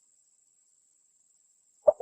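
Spotted dove call: near silence for most of it, then one short coo note near the end as the next phrase begins.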